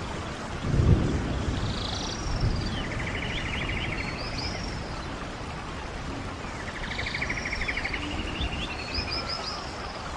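Stream water running steadily while a songbird sings the same phrase twice, a buzzy trill followed by quick high chirps. There is a low thump about a second in.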